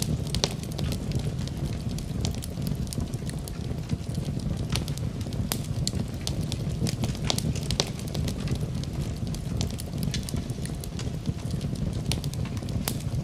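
Campfire burning with a steady low rumble of flames and frequent irregular sharp crackles and pops of burning wood.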